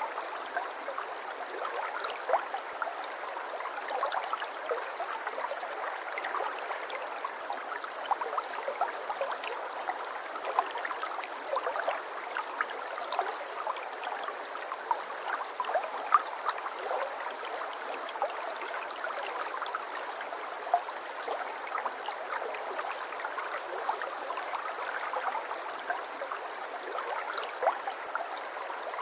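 A small brook babbling: water running over stones, with a steady rush and many small, irregular splashes and gurgles.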